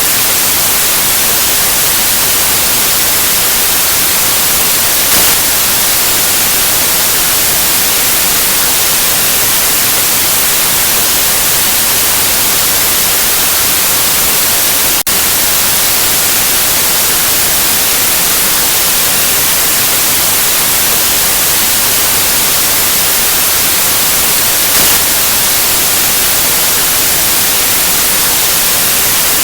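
Steady white noise: an even, loud hiss like static, brightest in the high end. A brief tiny click with a momentary dip in level about halfway through.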